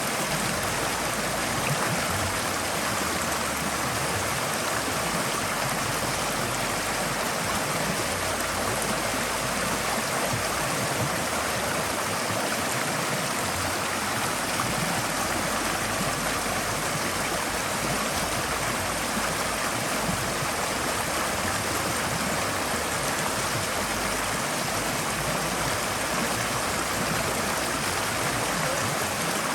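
Forest stream flowing over rocks: a steady, even rush of water without a break.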